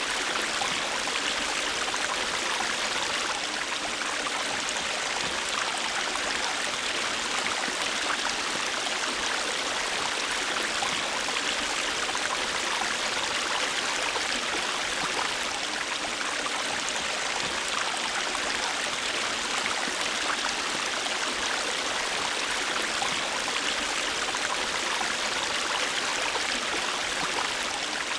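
River water flowing and splashing over rocks, a steady rushing with fine gurgling and no breaks.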